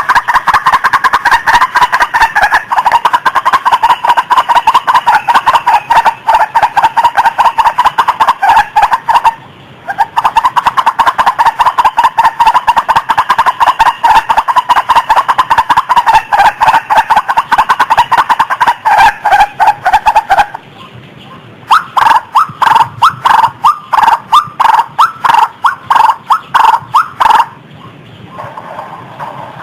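White-breasted waterhen calls, a recorded lure call: rapid, loud repeated notes in long runs. The calling breaks off briefly about nine seconds in and again about twenty seconds in, resumes in choppier bursts, then turns quieter near the end.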